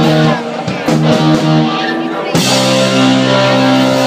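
Rock band playing live on electric guitar and drums, repeating a short chord figure. About two and a half seconds in, a loud sustained chord with a wash of cymbals takes over.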